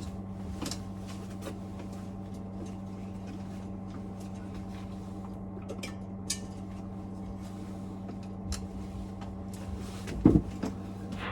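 Light clicks and clinks of metal parts being handled while a boiler fan is fitted back into a Vaillant Turbomax, with one louder knock near the end. A steady low hum runs underneath.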